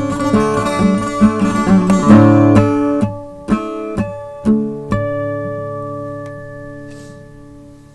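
Acoustic guitar ending a song: strummed chords, then a few single plucked notes about three to five seconds in, and a final chord left to ring and fade away.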